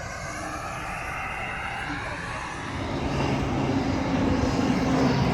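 Airliner's engines running, a broad roar with a steady low drone that grows louder about three seconds in.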